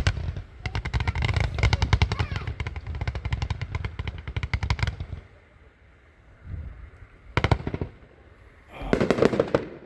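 Consumer firework cake (multi-shot repeater) firing a rapid string of sharp reports for about four seconds, then falling quiet before a short burst and a louder flurry near the end.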